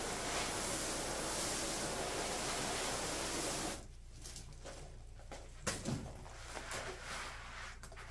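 Water mister spraying a steady hiss of fine mist onto a cob-plastered wall to wet it before mudding, stopping suddenly a little under four seconds in. A sharp click and faint handling noises follow.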